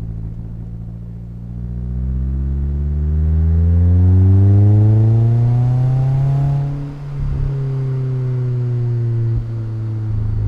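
Mazda MX-5's engine and exhaust accelerating, the note rising steadily for several seconds. About seven seconds in it breaks off briefly, as in a gear change, then carries on at a lower, steadier pitch.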